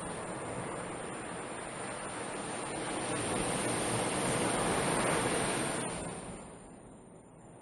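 Ocean surf: a wave's wash builds to a peak about five seconds in, then fades as it breaks and runs out.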